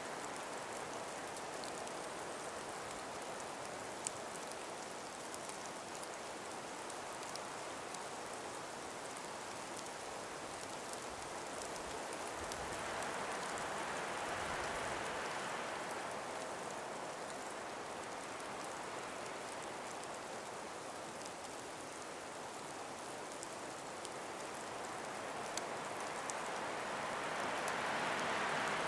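Calm breeze moving through ice- and snow-laden forest trees: a steady hiss that swells twice in gentle gusts, with faint scattered ticks.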